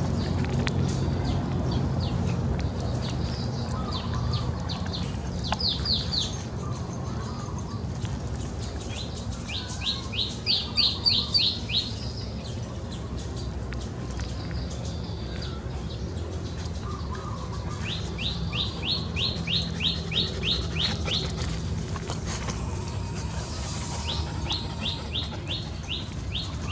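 A bird singing runs of quick, high, downward-sweeping chirps, about four a second, four times, each run lasting two to three seconds. A steady low rumble runs underneath.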